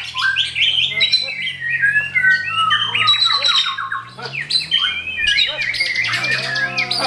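White-rumped shamas (murai batu) singing loudly, a dense, unbroken stream of rapid whistles, trills and harsh chattering notes from more than one bird at once, over a low steady hum.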